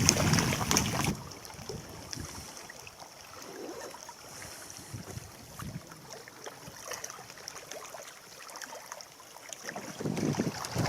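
Wind buffeting the microphone, loud for about the first second, then dropping to a faint outdoor hush with scattered light ticks, and gusting in again near the end.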